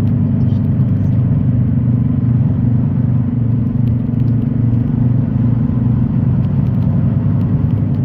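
Semi-truck's diesel engine and road noise, a steady low rumble heard from inside the cab while driving.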